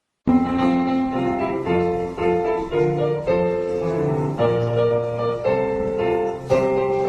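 Piano playing chords in a steady rhythm, starting suddenly a moment after silence: an instrumental introduction ahead of a child's song.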